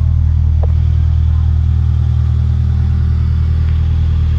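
Toyota Alphard minivan's engine idling, close by: a steady low hum.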